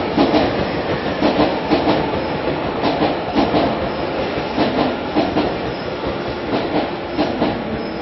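Electric commuter train running on the rails, heard on board: a steady rumble with irregular clicks as the wheels pass rail joints and points. The sound eases gradually as the train slows.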